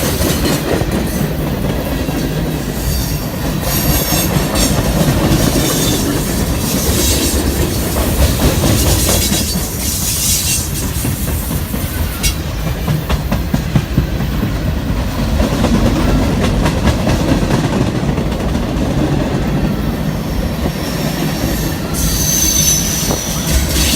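Train cars rolling past with a steady rumble and clicking of wheels over the rails. A high wheel squeal comes and goes several times.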